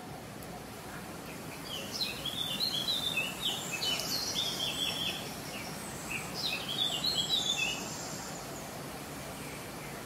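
A bird calling in two bouts of quick, high chirping notes, each lasting a few seconds, the second starting about six seconds in. A steady background hiss runs underneath.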